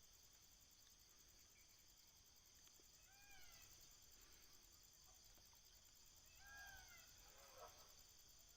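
Faint, steady insect chirring in the background, with two short animal calls, each rising then falling in pitch: one about three seconds in, the other between six and seven seconds in.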